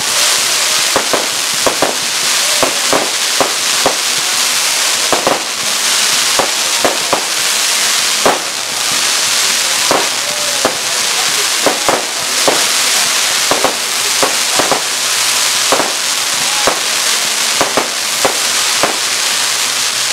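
Aerial fireworks going off: a steady hiss of burning comets and crackling stars under a fast, irregular string of sharp bangs, at times several a second, with a short whistle near the middle.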